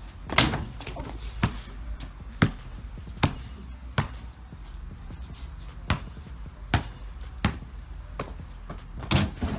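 A basketball being dribbled, a sharp bounce about every second, then a quick cluster of knocks near the end.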